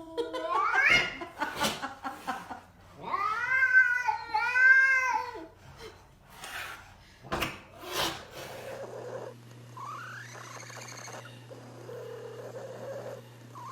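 A cat making odd, drawn-out meowing calls: one rising yowl that ends about a second in, then three arching calls in a row around four seconds in. A few sharp knocks follow, and from about nine seconds fainter calls sound over a steady low hum.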